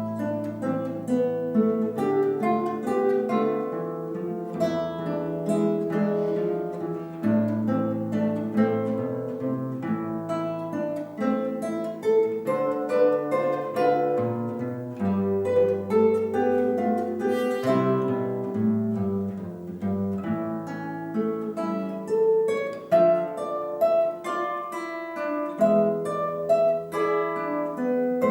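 Two guitars playing a duet: a plucked melody over bass notes.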